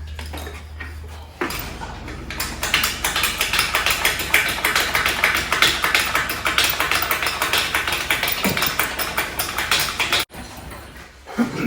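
Ratchet wrench clicking in a fast, even run for about eight seconds as a part is spun loose, then stopping abruptly.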